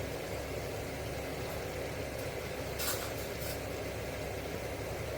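Steady low rumble of a gas cooker burner under a pan of gravy heating toward the boil, with a short burst of light clinks about three seconds in.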